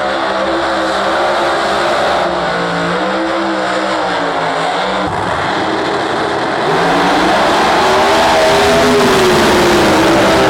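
Drag race car engines running and revving, the pitch rising and falling. The sound gets louder about seven seconds in.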